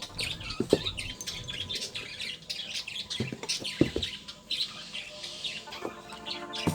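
Birds chirping and squawking repeatedly, with a few sharp knocks about a second in and again around three to four seconds in.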